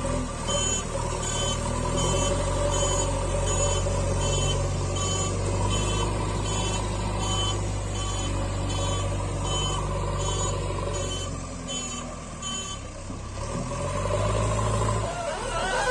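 Reversing-alarm beeps from a vehicle sound effect, repeating evenly about one and a half times a second over a steady low engine rumble. The beeps stop near the end.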